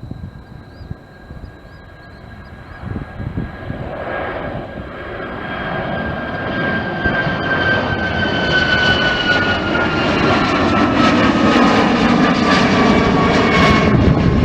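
Jet airliner passing close by, its engine noise growing steadily louder while a high engine whine slowly falls in pitch. Wind buffets the microphone in the first few seconds.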